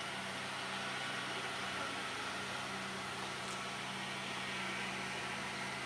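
Motor vehicle engine idling: a steady, even low hum under a constant hiss.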